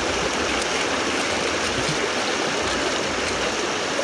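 River water rushing and splashing steadily over rocks, a continuous noise with no breaks.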